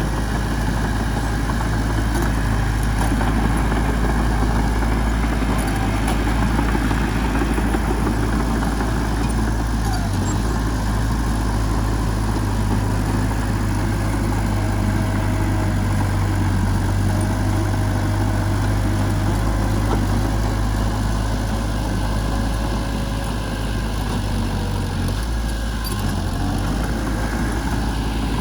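Heavy diesel engine of earth-moving machinery running steadily at a low, even pitch.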